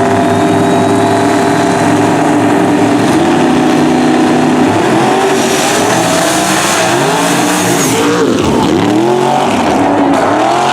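Loud race car engine running at a steady pitch, then sweeping up and down in pitch in the second half as a car passes close by.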